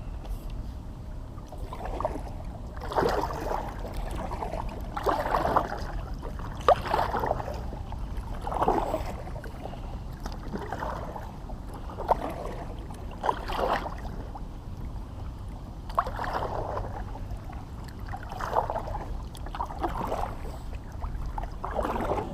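Kayak paddle strokes swishing and dripping through shallow water, one every one and a half to two seconds, over a low steady rumble.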